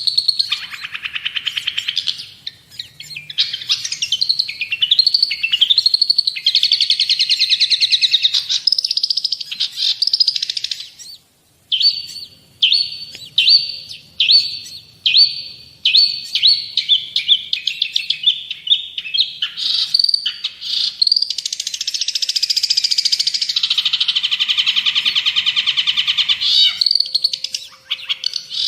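Long-tailed shrike (cendet) singing loudly and continuously in a varied, chattering song. In the middle it runs into a series of short, sharp repeated notes that come faster and faster, then turns to a harsh, buzzy stretch near the end.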